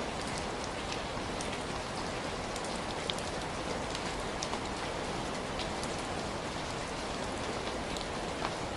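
Heavy rain falling steadily, a dense even hiss with scattered sharp drop splats on a hard surface.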